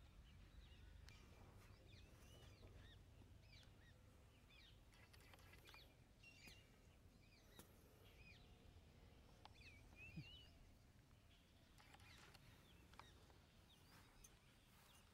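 Faint chirping of small birds, many short calls that rise and fall in pitch, scattered throughout, over a low steady rumble.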